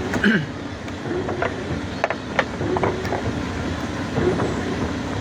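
A boat's engine running steadily, with a handful of short knocks or clicks over it.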